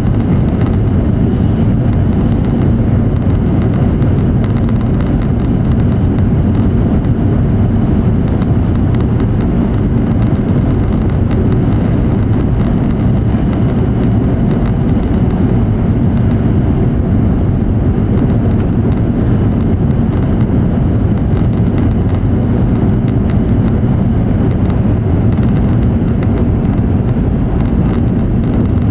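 Steady rumble of an E7 series Shinkansen running at speed, as heard inside the passenger cabin: rolling and running noise with no change in level.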